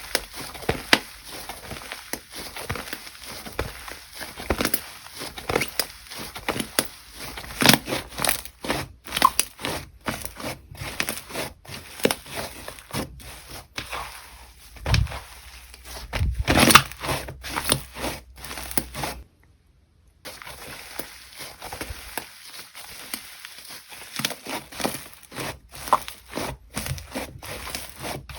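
Hands playing with slime, squeezing and poking it to give a steady stream of irregular crackling and popping clicks, with a few louder squishes past the middle and a brief gap about two-thirds of the way through.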